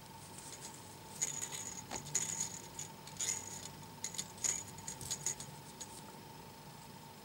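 Thin craft wire and a needle being worked through a crocheted snowflake: a run of irregular light metallic clicks and tinkles, from about a second in to about five seconds in, over a faint steady hum.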